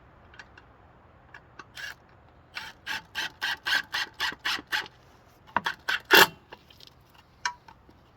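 A strap being pulled tight: a run of about eight short noisy strokes, roughly four a second, then a few louder strokes after a brief pause.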